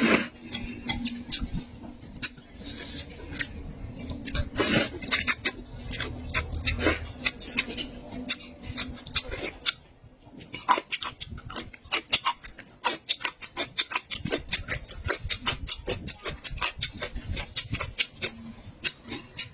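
Close-miked chewing of meat, with wet smacking and clicking mouth sounds coming irregularly, several a second, busier in the second half.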